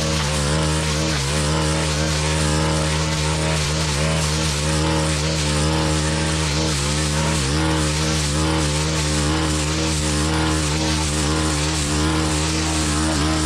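Stihl FS-131 brush cutter's 4-MIX engine running steadily at full throttle while its mulching blade cuts dense canary grass. The pitch dips briefly now and then as the blade meets the grass.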